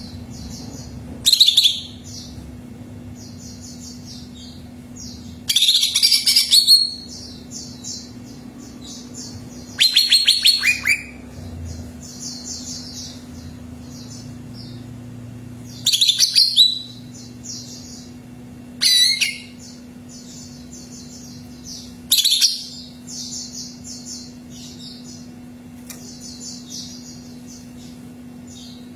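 Cucak ijo (green leafbird) singing: six loud, short song phrases a few seconds apart, with a continuous quick, high twittering between them and a steady low hum underneath.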